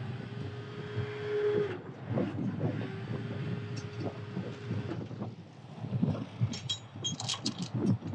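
Heavy rotator wrecker working at a recovery: a steady mid-pitched whine held twice, about two seconds each, over a low engine rumble and wind. Near the end come a run of sharp metallic clanks and knocks.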